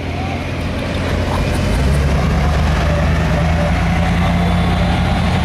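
Stock gasoline engine of a 1972 Ford F-250 running loud and steady while pulling a sled at a truck pull. Its sound builds up over the first couple of seconds, then holds.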